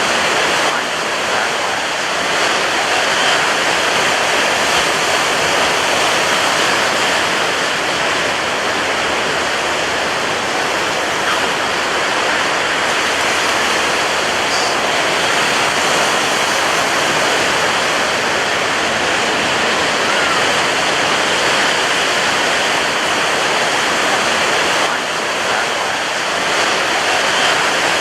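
Ocean surf breaking on a beach, a steady dense roar of white water with only slight swells in level.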